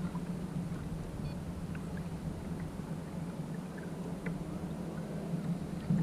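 Water gurgling and lapping against a kayak's hull in a fast-running tidal current, with a few faint small clicks.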